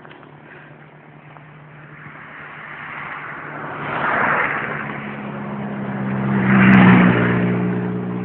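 Two motor vehicles passing close by on the road, one about four seconds in and a louder one about seven seconds in, each swelling and then fading. A steady engine hum carries on after the second pass.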